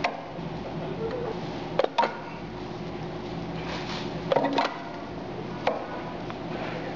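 SWA-2208 pedal-operated mechanical spot welder being worked: a few sharp clacks as the welding head is pulled down and released, a pair about two seconds in, a cluster around four and a half seconds, and one more near six. A steady low hum runs underneath.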